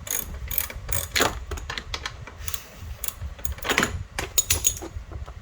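Irregular clicking and clinking of hand tools and parts being worked on, with a few louder knocks about a second in and near four seconds.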